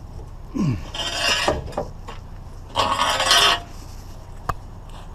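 Scrap being handled by hand: a short falling creak, then scraping and rattling, loudest about three seconds in, and a sharp click near the end.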